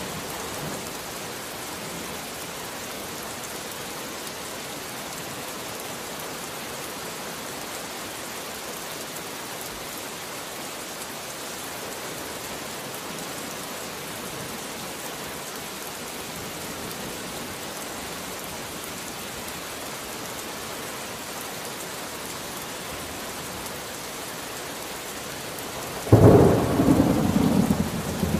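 Steady rain falling, then a sudden loud clap of thunder near the end that rumbles on for a couple of seconds.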